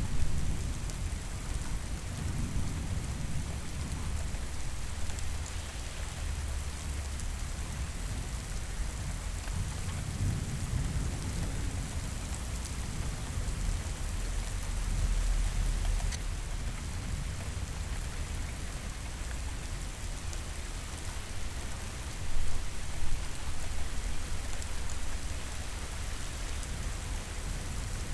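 Steady heavy rain falling, with low rolling thunder rumbling in several slow swells, the loudest a little over two thirds of the way through.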